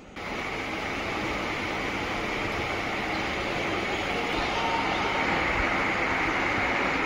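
A train running on the rails: a steady rumble with a hissing high rattle. It starts abruptly just after the start and grows slowly louder.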